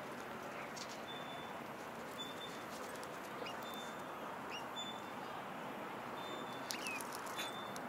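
Small birds chirping: a short high note repeated about every second, with a few brief sliding chirps, over a steady background hiss. A few light clicks, loudest near the end.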